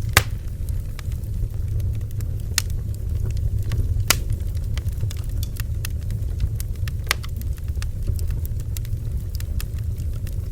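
Bonfire of burning wood crackling, with irregular sharp pops over a steady low rumble; the loudest pop comes just after the start.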